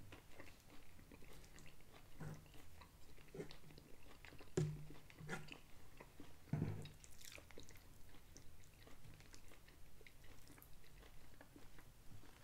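A man chewing food quietly, with light clicks of a metal fork against a plate.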